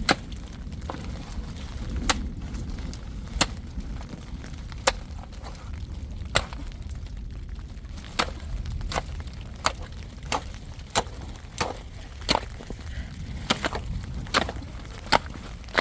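Wood being chopped with sharp, cracking strikes, about one every second and a half at first, then quicker, about one every 0.7 s, in the second half.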